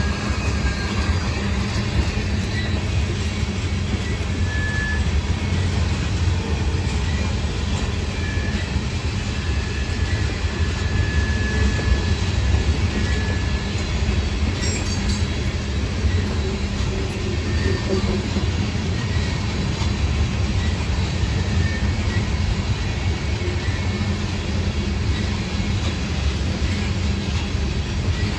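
Tank cars of a freight oil train rolling past, a continuous steady noise of steel wheels on rail, with now and then a brief faint high wheel squeal.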